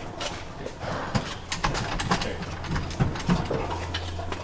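Irregular metallic clicks and clanks from tools and hardware as a car's transmission is worked free and lowered out, over a steady low hum.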